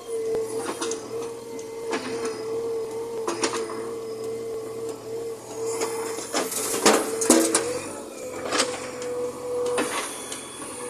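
JCB 3DX backhoe loader working: a steady engine and hydraulic whine with scattered knocks and clanks, and a burst of clattering about six to seven seconds in.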